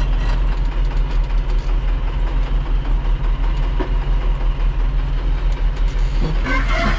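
A vehicle's engine runs with a steady low drone, heard from inside the cab while it is driven along the road. Music comes in near the end.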